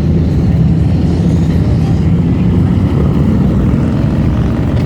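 Motorcycle engines running in passing street traffic, a loud, steady low drone.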